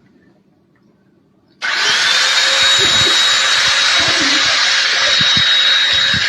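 A small electric motor switches on about a second and a half in and runs steadily and loudly with a high whine, then cuts off abruptly.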